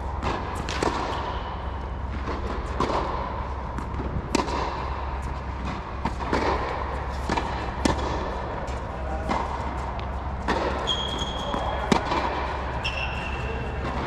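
Tennis balls being hit with rackets and bouncing on the court during a drill: sharp pops at irregular intervals, over a steady low hum. A few short high squeaks come in the second half.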